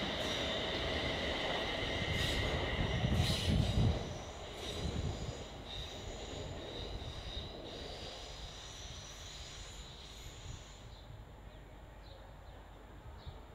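A train passing on the track with its wheels squealing in several steady high tones over a rumble that is loudest about three to four seconds in, then fading away as it moves off.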